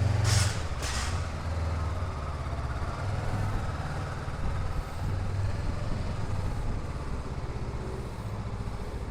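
Heavy road vehicle's engine running close by in traffic, with two short hisses of released air about half a second apart near the start.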